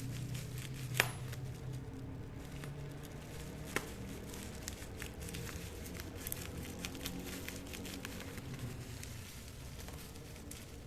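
Handling noises: light rustling and scattered small ticks, with one sharp click about a second in and another near four seconds.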